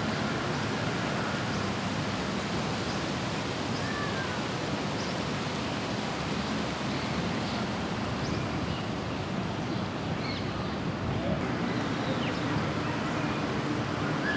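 Steady hiss-like noise with no clear rhythm, and a few faint short chirps now and then.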